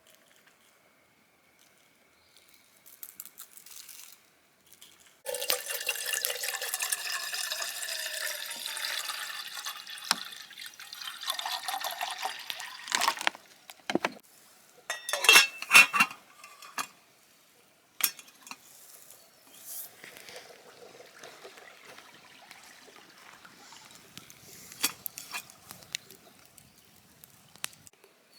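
Water being poured into a container for about eight seconds, its pitch rising as it fills, followed by a few sharp knocks.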